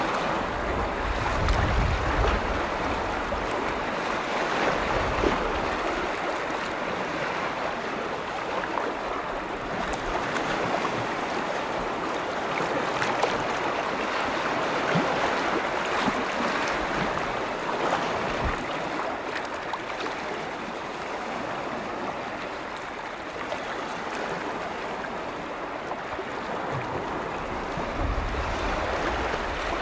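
Small lake waves washing steadily against the shore, with low wind rumble on the microphone about a second in and again near the end.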